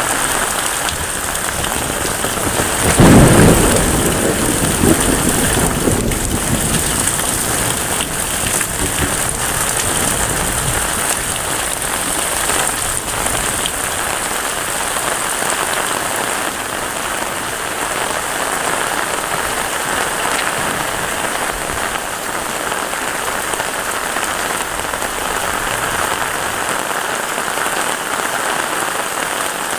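Heavy rain falling steadily. About three seconds in, a loud clap of thunder rumbles on for a few seconds before fading back under the rain.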